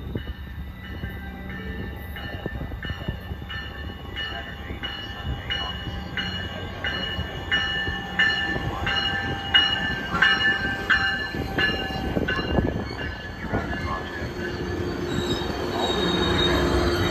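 Metrolink diesel commuter train arriving at a station: the locomotive's bell rings steadily about twice a second, growing louder as it approaches, and stops about three-quarters of the way through. The rumble and squeal of the wheels and brakes then follow as the bilevel coaches roll past and slow.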